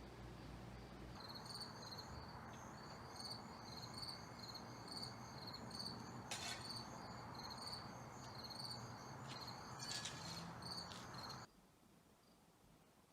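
Cricket chirping faintly, short high chirps about twice a second over a steady outdoor hiss, stopping suddenly near the end.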